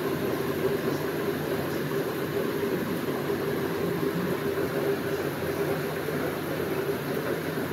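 Steady rain falling, with a constant low hum under it.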